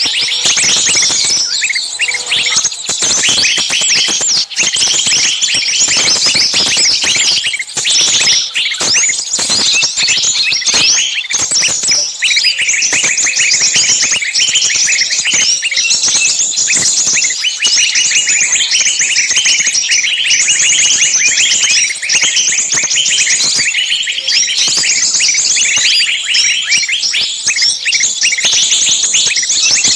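A dense chorus of many small birds chirping at once, quick high chirps overlapping without a break.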